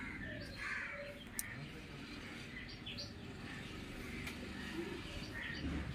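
Birds chirping and calling in the background over a low steady hum, with a sharp click about one and a half seconds in.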